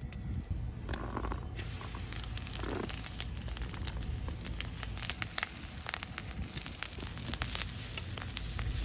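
Wood campfire crackling, with frequent sharp pops that start about a second and a half in, over a steady low rumble.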